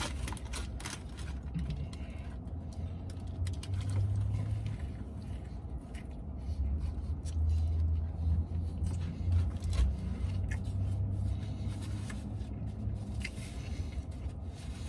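A man chewing a big bite of a double cheeseburger, with short wet mouth clicks, over an uneven low rumble that swells and fades.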